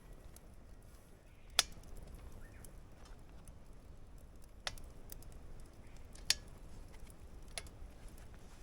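Wood campfire crackling, with four sharp, widely spaced pops over a low background hiss.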